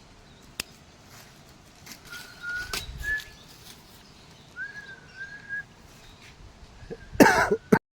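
Clear whistled notes at one steady pitch, slightly wavering, heard three times, the last held about a second. Near the end comes a loud rustling knock, then the sound cuts off.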